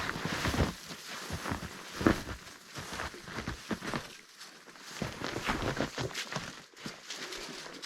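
Footsteps crunching and rustling through forest floor and brush, irregular and uneven, with a sharper knock about two seconds in.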